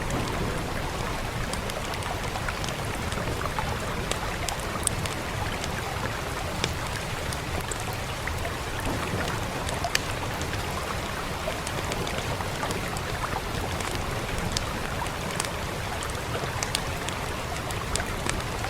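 Steady rain falling, with scattered sharp crackles and pops from a wood fire at irregular moments.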